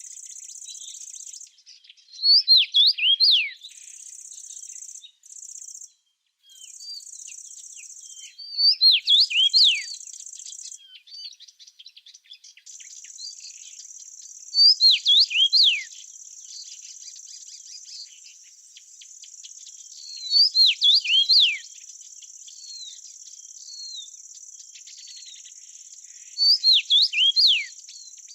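A small bird sings a short, loud phrase of quick sliding notes, repeated five times at roughly six-second intervals. Under it runs a steady, high insect trill, cricket-like, that comes in broken stretches at first and goes on without a break from about halfway.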